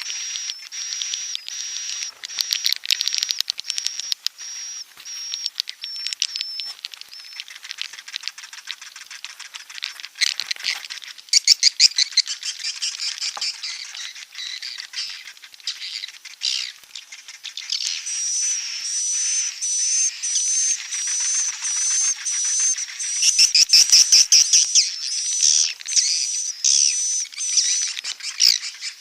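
Swiftlets calling: rapid trains of high chirps and clicking twitters over a thin, shrill, steady whistle, as in the recorded lure calls played to draw swiftlets to nest. The calling grows denser and louder a little past the middle.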